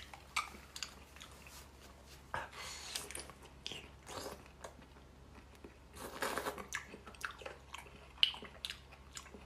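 Close-miked biting and chewing of slices of crystal cured pork fat: irregular mouth clicks and smacks, with longer chewing noises about two and a half and six seconds in.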